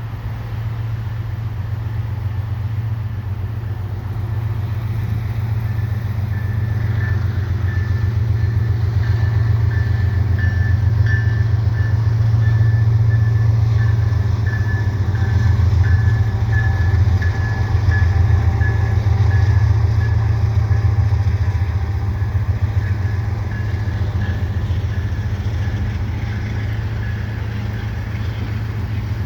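Heavy vehicle rumble that swells through the middle, with a thin, broken high-pitched whine running over it for most of its length.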